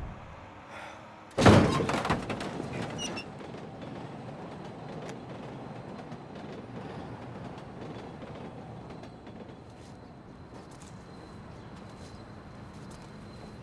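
A single heavy thump about a second and a half in, fading out over about a second, followed by a steady low background hiss.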